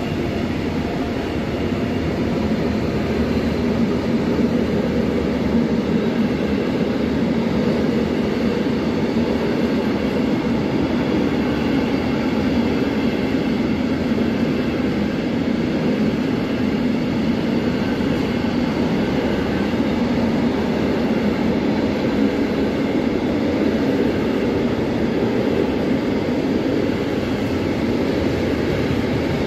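A train running past, a steady rumble of wheels on rails that holds at the same level throughout.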